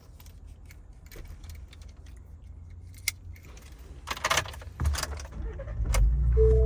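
Keys jangling and clicking, then the 2019 Ford Raptor's twin-turbo 3.5-litre V6 cranks and starts about five seconds in, settling into a steady low idle. A chime tone from the dash begins near the end.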